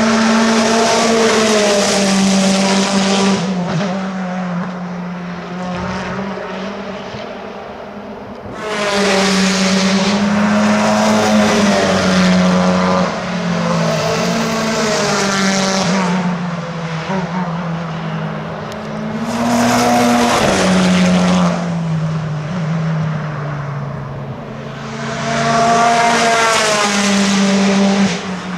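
Racing cars passing at speed, one group after another: four loud passes with distant engine noise between them, the engine pitch stepping up and down as each goes by.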